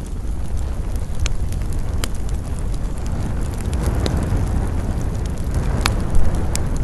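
Wood campfire crackling, with scattered sharp pops, the strongest one just before the end. Under it runs a steady low rumble of wind.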